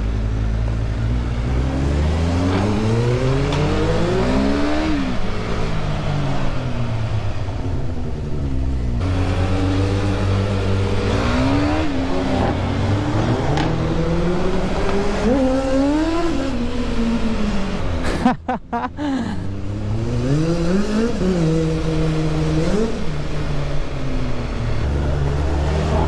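Vehicle engine revving up and down over and over, its pitch climbing through each gear and falling back as the throttle is closed, with steady wind and road noise. The sound cuts out briefly about two thirds of the way through.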